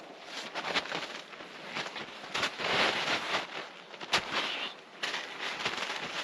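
Irregular crunching and rustling, with a couple of sharp knocks, one about a second in and a louder one about four seconds in.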